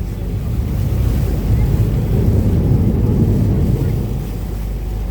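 An Uber Boat river bus running steadily under way: a continuous low engine rumble with water rushing past and wind buffeting the microphone.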